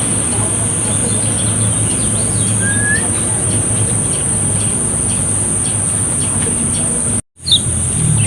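A few short, sparse bird chirps, one of them a quick rising note, over a steady high-pitched whine and a low hum of outdoor background. The sound cuts out for an instant near the end.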